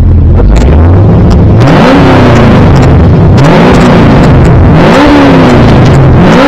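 2010 Camaro engine through newly fitted SLP long-tube headers and full stainless exhaust, revved about four times in a row, each rev rising and falling smoothly, over a loud exhaust rumble.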